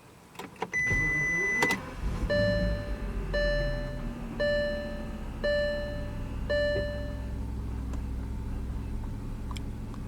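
A couple of clicks and a single steady beep as the ignition comes on. Then the Volkswagen Phaeton's W12 engine starts about two seconds in and idles low, under five dashboard warning chimes about one a second.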